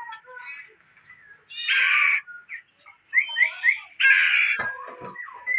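Bird calling: two loud harsh, rasping calls, about a second and a half in and again about four seconds in, with a run of quick whistled notes between them.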